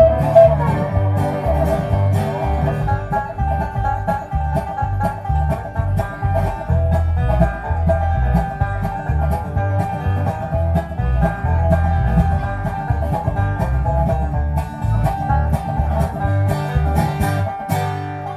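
Acoustic string-band music: quick plucked notes over a steady, stepping bass line.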